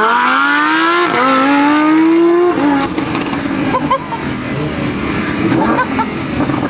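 Lamborghini V10 engine at full throttle, revving up hard with quick upshifts about a second in and again about two and a half seconds in, then carrying on lower and quieter. It is so loud.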